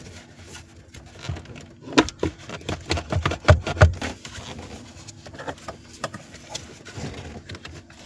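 Knocks, clicks and scrapes of a car heater core being worked loose and pulled out of its housing, with a quick cluster of knocks, the loudest, in the middle.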